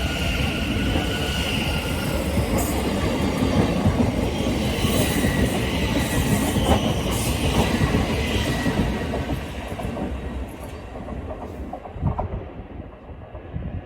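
A passing train running over the rails with a rumble and some wheel squeal, fading away about ten seconds in.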